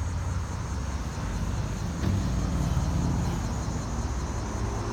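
Road traffic passing on a busy road: a steady rumble of cars that grows a little louder about two seconds in.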